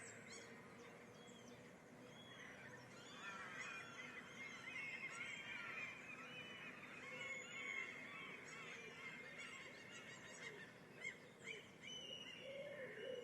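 Many birds singing and chirping at once, a dense chorus of overlapping short calls and warbles, faint throughout.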